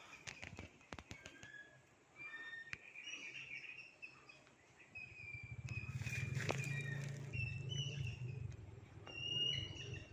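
Wild birds calling with many short, high whistled notes, with a few light clicks in the first couple of seconds and a low rumble from about halfway in.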